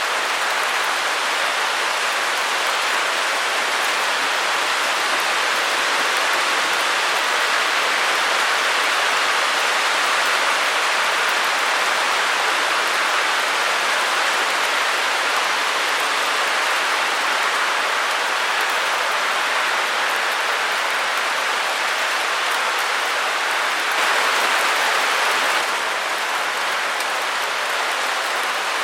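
Steady, even hiss of white noise, strongest in the upper middle of the range with little bass. It swells a little louder for a couple of seconds about 24 seconds in, then drops back slightly.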